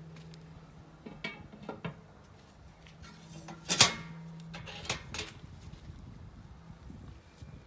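Several separate clinks and knocks of utensils against cookware or dishes, the loudest about four seconds in, over a faint steady low hum.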